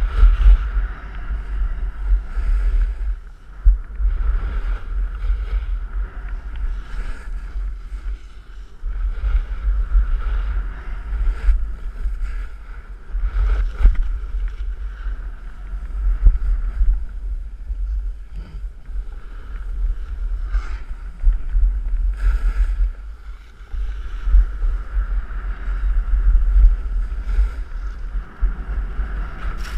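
Wind buffeting the microphone during a fast run down a ski slope, with a steady hiss and repeated scrapes of edges carving packed snow.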